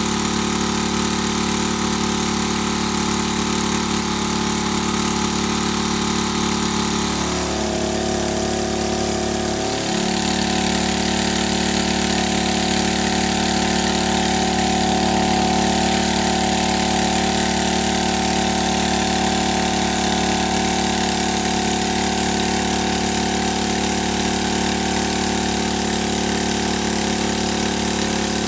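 A motor running steadily, its pitch shifting briefly about seven to ten seconds in before settling again.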